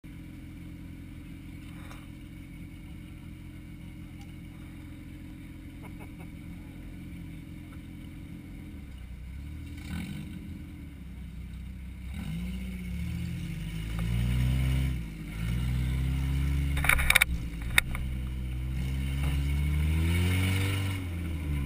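Compact race car's engine idling steadily, then revving up and accelerating from about nine seconds in, its revs climbing and dropping several times. Two sharp knocks come near the middle of the acceleration.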